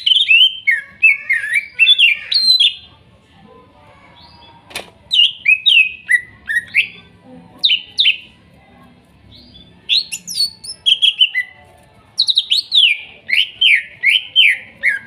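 Green leafbird (cucak ijo) singing: rapid runs of varied, sweeping chirps and whistles in four loud phrases, each separated by a pause of a second or two.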